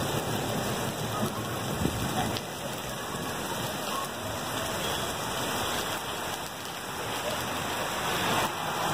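Heavy rain falling steadily on a wet paved street, an even hiss of drops.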